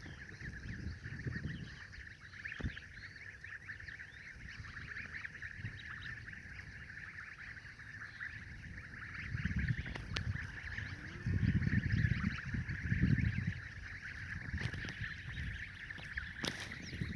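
A flock of poultry, likely geese or ducks, calls continuously in a dense chatter of many short overlapping calls. A few low rumbles, the loudest sounds here, come about halfway through.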